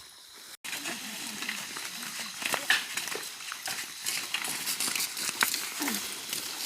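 Stones clattering and knocking as they are tossed and handled on a broken road surface, in irregular clicks, with people talking in the background.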